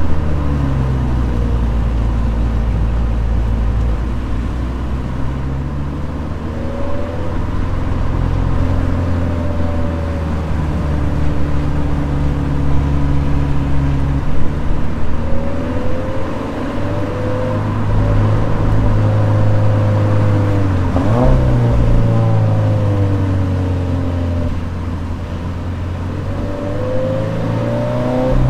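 Toyota 86's 2.0-litre flat-four engine under way, its revs rising and falling through the gears. About two-thirds of the way through there is a brief quick rise and drop in revs.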